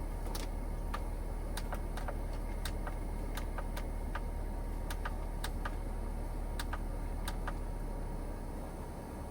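Steady hum of a 12V vehicle air conditioner running inside a van, with scattered light ticks, roughly two a second. The hum drops slightly near the end.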